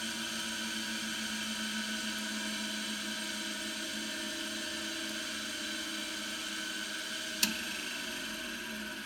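Craftsman 1 hp capacitor electric motor running with a steady whir. A single sharp click comes about seven and a half seconds in, after which the pitch sags slightly and the sound eases off a little.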